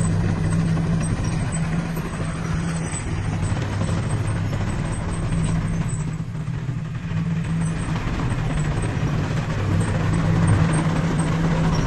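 Diesel engine of heavy earthmoving equipment running steadily, with a constant low hum.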